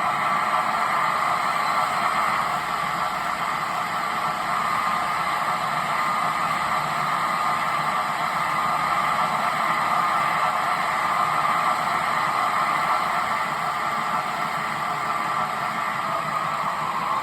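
Class 90 electric locomotive running sound from a YouChoos sound decoder (Zimo MX644) playing through an N-gauge-style model's small speaker while the model runs on a rolling road: a steady hissing drone at speed with no changes.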